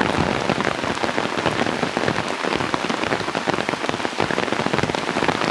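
Heavy rain falling, a dense, steady patter of many drops striking close by.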